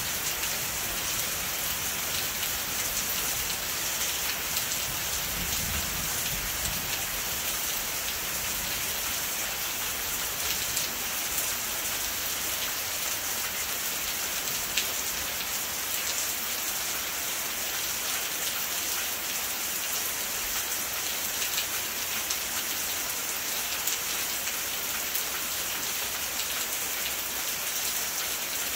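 Steady rain falling: a continuous hiss scattered with the ticks of individual drops. A faint low rumble sits under it in the first several seconds.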